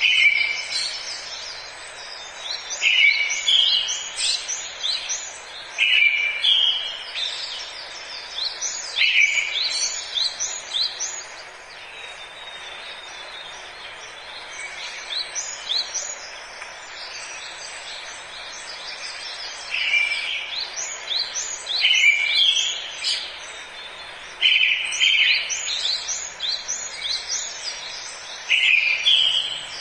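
Forest birdsong: a songbird repeats a short phrase about every three seconds, a lower opening note followed by a quick run of high chirps, with other birds chirping around it. The song pauses for several seconds midway, leaving fainter chirps over a steady background hiss.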